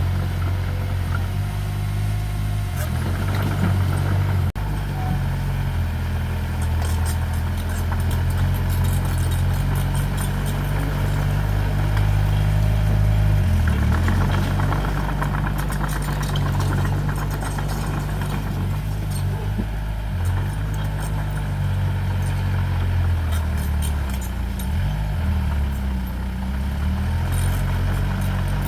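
Diesel engine of heavy earthmoving equipment running steadily, its speed dipping and changing a few times, with scattered rattling clicks.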